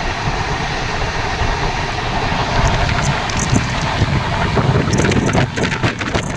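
Passenger train running at speed, heard from its coach: a steady rush of train noise and wind on the microphone. A run of sharp clicks comes in the last second and a half.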